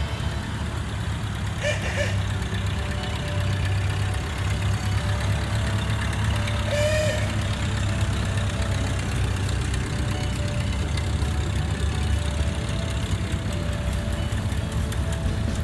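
Old doodlebug tractors, homemade from vintage cars, driving slowly past one after another, their engines running with a steady low rumble that swells as they go by.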